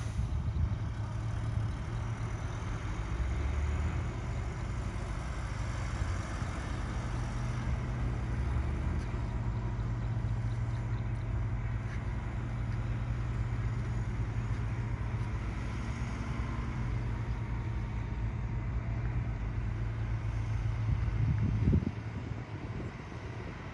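Heavy diesel earthmoving machinery running steadily with a low rumble; it swells briefly and then drops off sharply about 22 seconds in.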